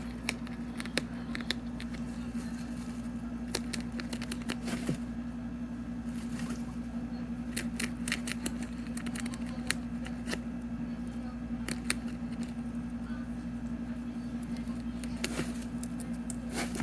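Guinea pig chewing and tearing a fresh banana leaf: irregular crisp clicks and crunches, scattered and uneven, over a steady low electrical hum.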